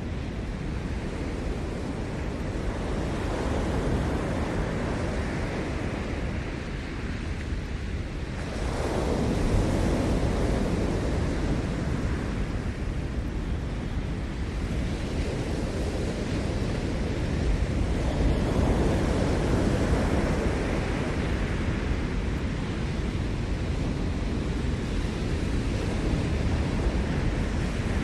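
Ocean surf breaking and washing on the shore, a steady rush that swells with a louder wave about a third of the way in and another about two-thirds in.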